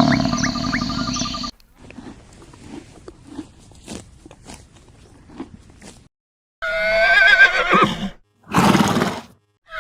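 A horse whinnying: one loud neigh with a wavering, shaking pitch in the second half, then a short noisy burst. Before it, a louder animal sound cuts off about a second and a half in, followed by a few seconds of faint clicks and rustling.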